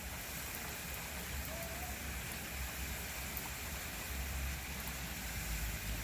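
Steady rain hissing down, with a low rumble underneath.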